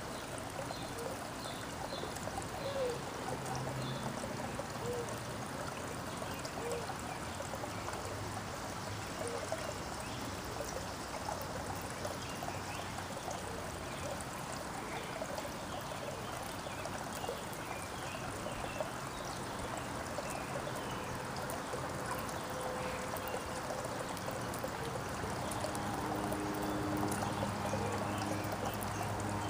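Steady trickling, running water, with a few faint bird chirps early on. A low steady hum comes in near the end.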